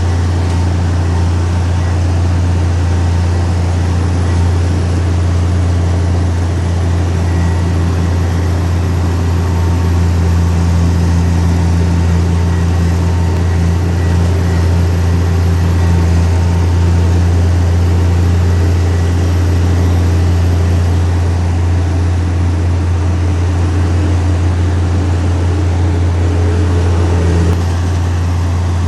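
Heavy diesel engine of an earthmoving machine running steadily at a constant low drone, with a slight change in tone near the end.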